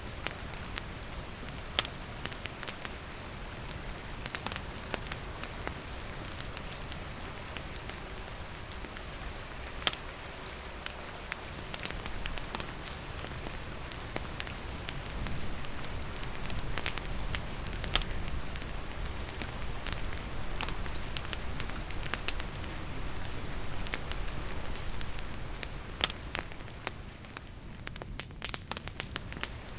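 Steady rain falling on leaves and a wooden roof, mixed with a wood campfire crackling, with sharp pops from the fire scattered irregularly.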